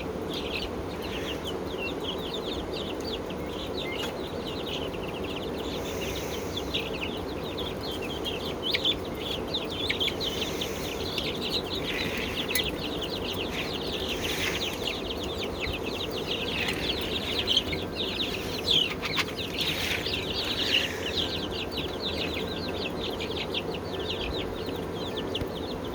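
A flock of birds, likely poultry, calling nonstop as many short, high calls overlap. A steady low hum runs beneath them.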